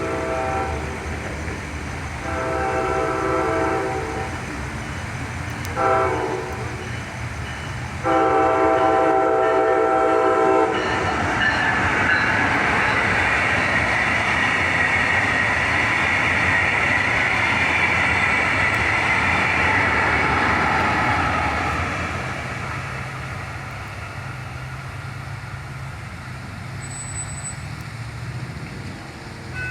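A Brightline passenger train's Siemens Charger locomotive sounds its horn in the grade-crossing pattern: the tail of one blast, then a long, a short and a long blast. The train then rushes past with a loud rolling rumble and a high hiss of wheels on rail, which fades over the last several seconds.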